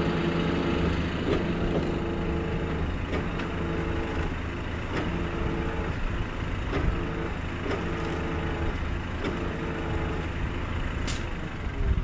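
A heavy tow truck's engine running steadily while it drives the winch hauling a stuck truck out by cable. A regular click comes about once every three-quarters of a second, with a tone that breaks off at each click. A short hiss comes near the end.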